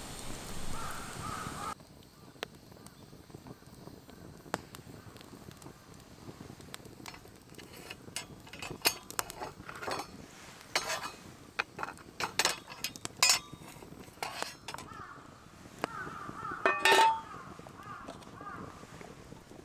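Metal cookware and utensils clinking and tapping: scattered sharp taps, then one louder ringing clink near the end. A crow caws over wind at the very start.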